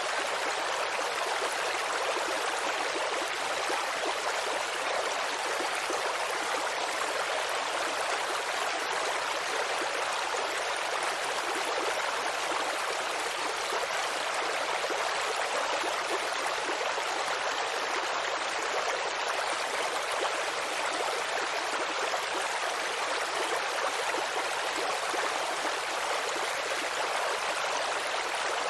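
Babbling creek water running steadily, an even rushing and gurgling without breaks.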